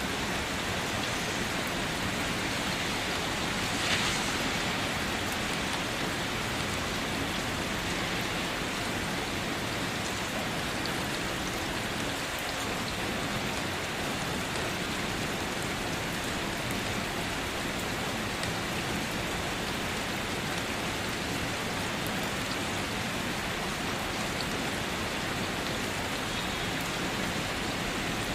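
Steady rain falling, an even hiss with faint scattered drop ticks, and one brief louder splash about four seconds in.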